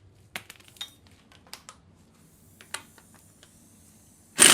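Light metallic clicks and clatter of a socket and impact wrench being handled and set on the crank pulley bolt of a diesel engine, then the impact wrench fires up loudly right at the end.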